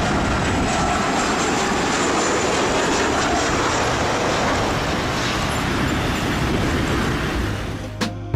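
Loud, steady vehicle rumble and rush that drops away just before the end, with a sharp click as it stops.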